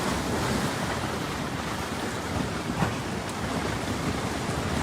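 Steady rushing noise with no clear tones, like surf or wind.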